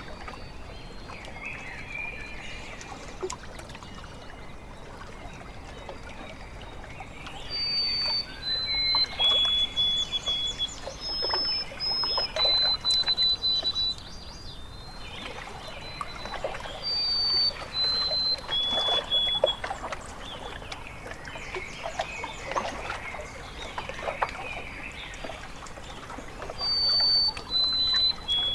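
Water lapping and trickling in uneven spells, with a bird singing clear, steady whistled notes that step between a few pitches in short phrases.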